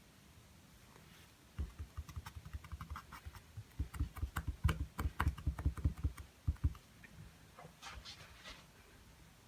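Rapid run of light taps, several a second for about five seconds: a paintbrush tapping and dabbing on a small stretched canvas. A brief scratchy rustle follows near the end.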